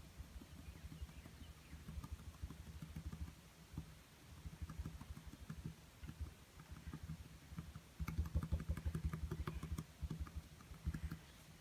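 Rapid soft dabbing and tapping of painting strokes on a small stretched canvas, coming in bursts and thickest for a couple of seconds about eight seconds in.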